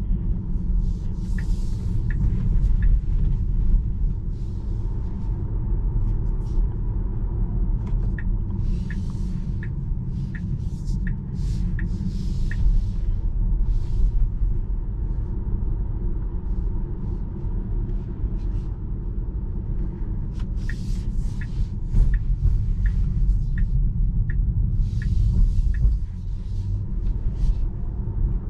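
Steady low road and tyre rumble from a 2021 Tesla Model 3 Performance being driven at city speed. Patches of hiss come and go, some carrying faint ticks at an even pace.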